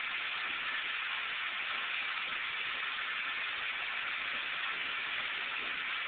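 Steady, even hiss throughout, with no distinct sounds standing out.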